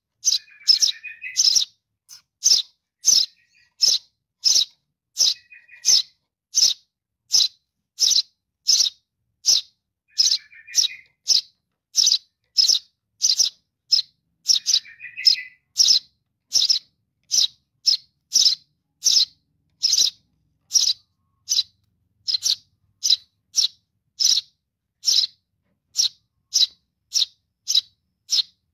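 Young sparrow calling for its parent: short, high chirps repeated steadily, about two a second, with a few brief lower rattling chatters mixed in during the first half.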